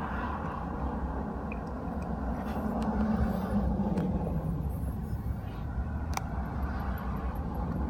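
Steady low rumble of a car, with a few faint clicks and one sharper click about six seconds in.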